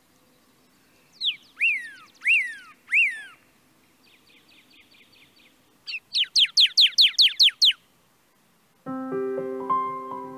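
Songbird calls: four separate descending whistled notes, a short dry rattle, then a quick run of about nine downward-sweeping whistles. Near the end, soft piano music comes in.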